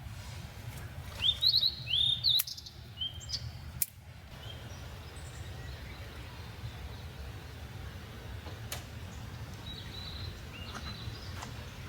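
A bird chirping close by: a quick series of short, sharp calls a second or so in, then a fainter call near the end, over a steady low outdoor rumble.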